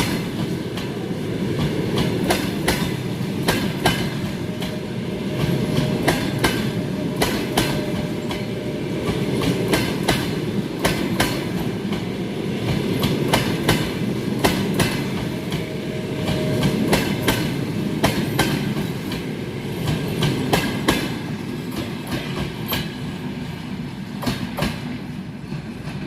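Passenger train running at speed, heard from inside the carriage: a steady rolling rumble with the clickety-clack of the wheels over rail joints.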